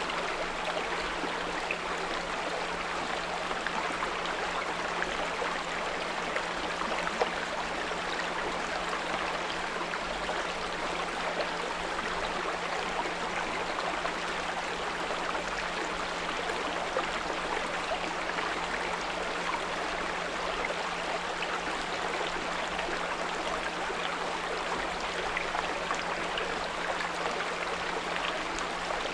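Small brook trickling and babbling steadily, with a steady 174 Hz pure tone held beneath the water.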